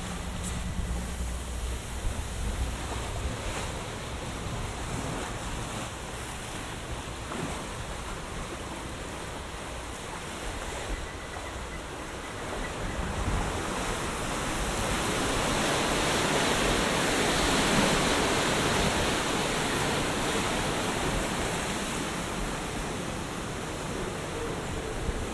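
Rushing, churning water from a river-rapids raft ride, swelling louder about two thirds of the way through and then easing back.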